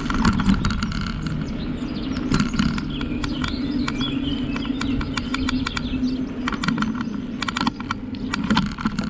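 Bicycle ride on a trail: steady rolling and wind noise with rapid clicks and rattles. A bird chirps about three to five seconds in.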